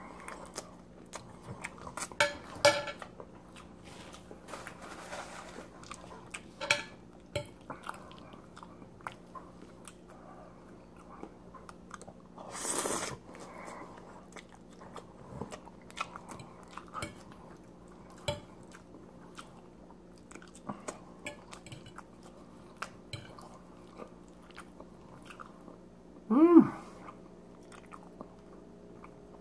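Close-up mouth sounds of eating spaghetti in creamy alfredo sauce: soft wet chewing clicks throughout, a longer slurp of noodles about thirteen seconds in, and a brief hummed vocal sound near the end.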